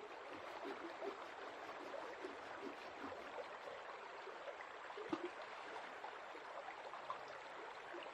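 Forest stream running steadily, a faint even rush of water, with a single light knock about five seconds in.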